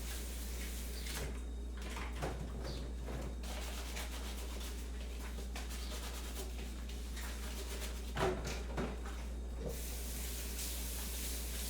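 Kitchen handling sounds: soft rubbing and scraping with a few light knocks, the loudest two about eight seconds in, over a steady low hum.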